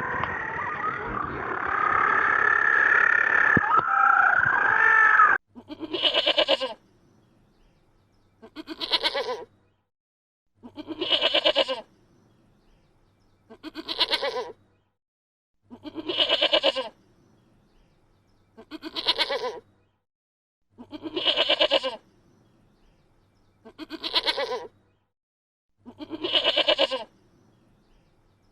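A continuous, louder sound cuts off suddenly about five seconds in. It is followed by repeated bleating calls from a goat-like farm animal, nine in all, each about a second long and wavering, evenly spaced about two and a half seconds apart.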